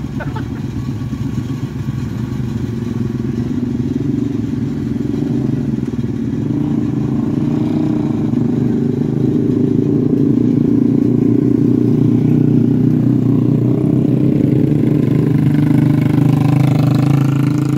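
Motor vehicle engine running steadily with a low hum that grows louder over the first half and stays loud until it cuts off at the end.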